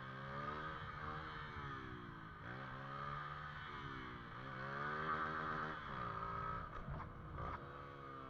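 Motorcycle engine running, its revs rising and falling several times as the throttle is opened and eased off. A few short rattles come near the end.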